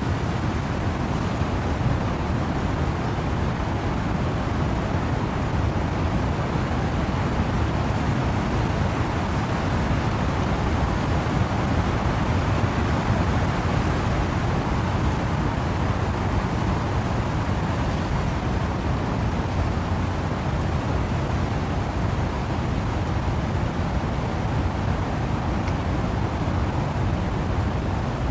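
Wind and rain in trees as a steady rushing noise, heaviest in the low rumble, with no single gusts, drops or other events standing out.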